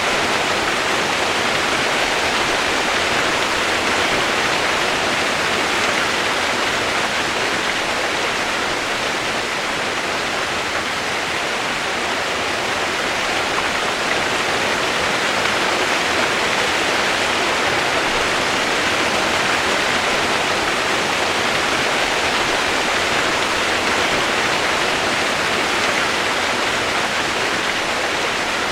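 Steady heavy rain as a white-noise track: an even, unchanging hiss with no single drops standing out.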